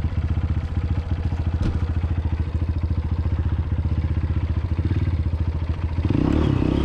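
Honda CRF230F dirt bike's single-cylinder four-stroke engine running steadily at low revs, picking up and getting louder about six seconds in as the throttle is opened a little.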